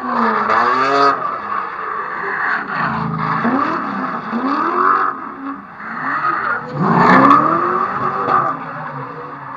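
Drift car engine revving up and down over and over, under a steady screech of tyres sliding; the biggest surges come at the start and about seven seconds in.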